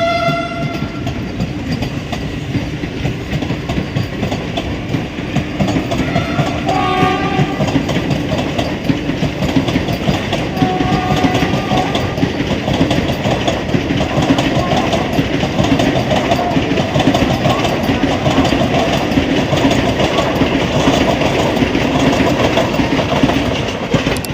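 Vande Bharat Express electric train running past at speed: a continuous loud rush with dense wheel clatter over the rails. The tail of a horn blast cuts off right at the start, and a few short, faint tones sound about six seconds and eleven seconds in.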